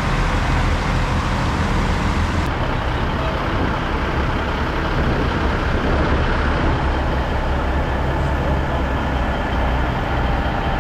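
Heavy diesel truck engine running at a steady speed, with a constant low drone.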